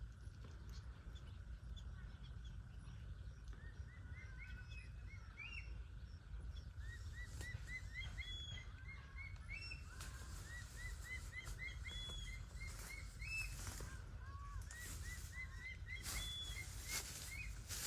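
Bird chirping in quick runs of short, high notes, several a second, over a steady low rumble, with a few brief rustling clicks in the second half.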